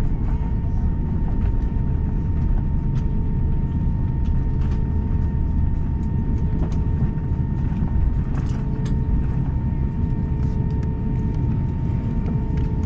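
Steady cabin noise inside an Airbus A350: a dense low rumble with a steady hum of tones above it and occasional faint clicks.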